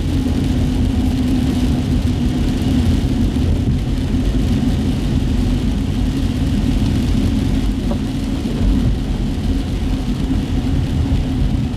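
Steady road noise heard from inside a car driving on wet city streets: a low engine and drivetrain rumble with tyre hiss, holding an even pace.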